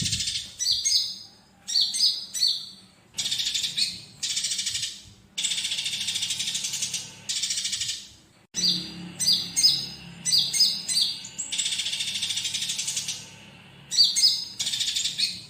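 Bird-song master recording of a konin with fighting tree sparrow chatter mixed in: short clusters of high, sharp chirps alternating with longer runs of rapid chattering about two seconds each, separated by brief gaps, over a faint low hum.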